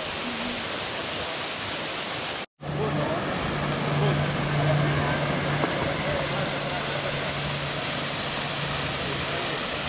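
Waterfall pouring into a pool: a steady, loud rush of falling water, broken by a sudden gap about two and a half seconds in. A steady low hum runs under the water from about three seconds in.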